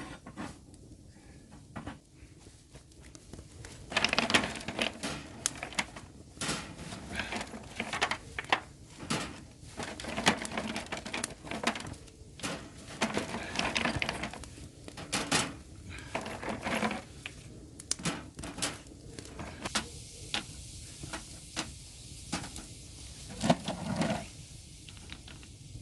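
River pebbles knocking and clattering together in irregular runs as they are washed by hand for stone grilling, starting about four seconds in and easing off near the end.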